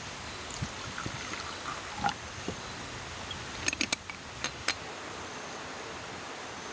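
Steady rush of a mountain stream, with a few soft knocks early on and a quick cluster of sharp clicks in the middle.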